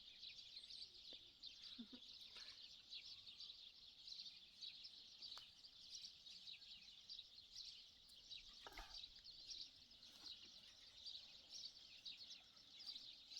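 Faint, continuous high-pitched chirping of many small birds, with a few faint knocks mixed in.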